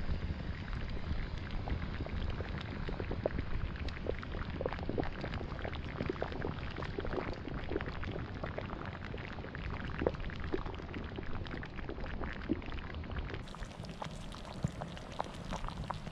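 Thick peanut curry simmering in a pot over a campfire, with a dense run of small pops and plops from bursting bubbles.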